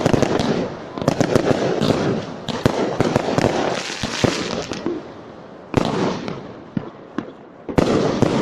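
Fireworks display: many bursts in quick succession, sharp cracks over a crackling din. The firing thins out after about five seconds, with fresh loud bangs near six seconds in and again near the end.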